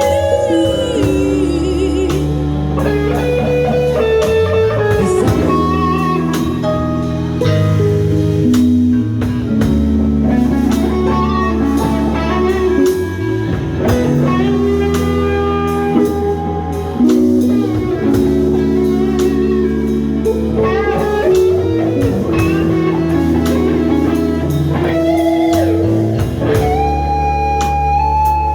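Live band playing a blues-style instrumental passage: guitar leads a melodic line over bass guitar and drum kit.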